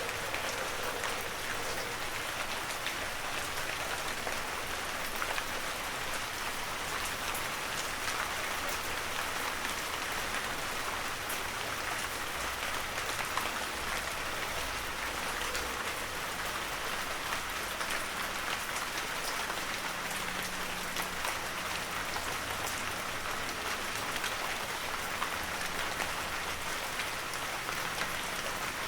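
Heavy rain falling steadily, a dense even hiss with many close drop patters.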